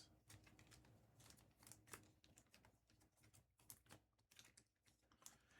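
Near silence with faint, scattered light clicks and taps of trading cards being handled.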